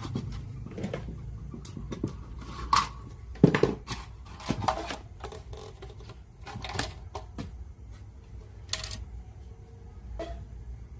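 Small tools and plastic parts of a radio cassette player being handled: irregular clicks and knocks, the loudest about three and a half seconds in, over a low steady hum.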